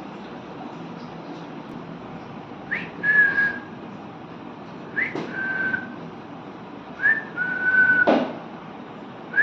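Parrot whistling the same two-part phrase three times, about two seconds apart: a short upward chirp followed by a held, steady note. A sharp click comes during the third phrase.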